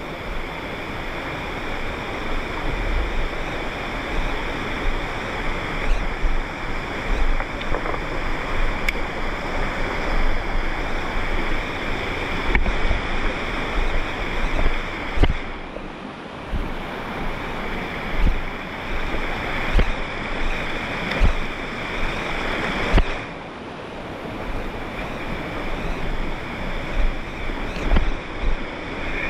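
Loud, steady rush of water, with irregular low thumps of wind buffeting the microphone.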